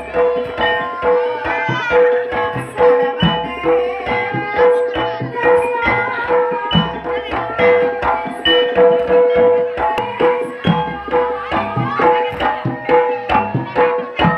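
Jaranan gamelan music: hand-drum strokes keep a quick rhythm over a steady, repeating bright metallic note and other pitched gong and metallophone notes.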